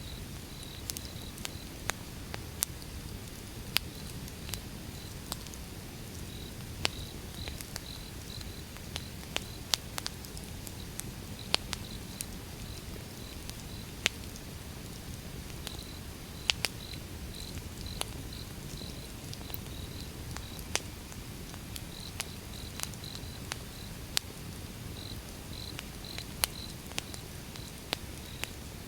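Wood fire burning: a steady low rumble with frequent sharp crackles and pops from the burning logs. A high, even chirping repeats a couple of times a second alongside it.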